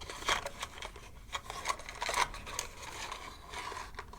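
Close-up handling of an unboxed slime kit's packaging and contents: scattered rustles, light taps and scratches as the items are moved about.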